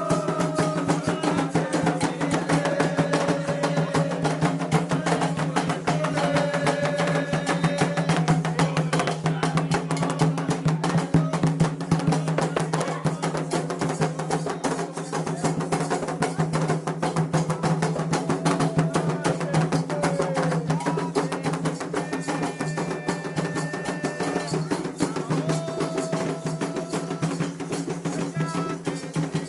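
Candomblé ritual music: atabaque hand drums and a struck bell play a fast, dense, unbroken rhythm while voices sing short held phrases over it.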